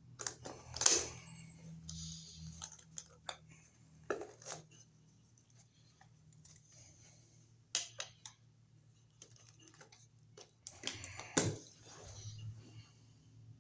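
Metal clinks, clicks and knocks of hand tools and metal parts as an electrical outlet and its box are worked on, with sharper knocks about one, eight and eleven seconds in.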